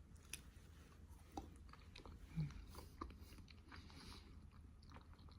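A person chewing food close to the microphone, with faint, scattered small crunches and clicks of eating.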